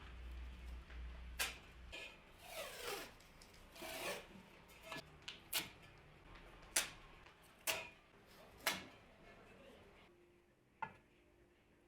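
Workshop handling sounds as wooden parts and tools are worked: a string of sharp, irregular knocks and clicks with short rubbing scrapes. A low hum runs through the first two seconds.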